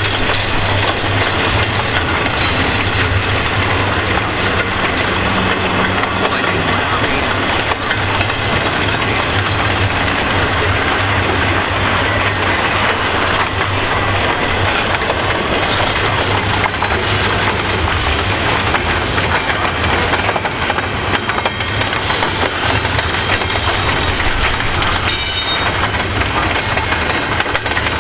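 Double-stack intermodal well cars of a long freight train rolling past: a loud, steady rumble and rattle of steel wheels on rails, with a brief high-pitched noise near the end.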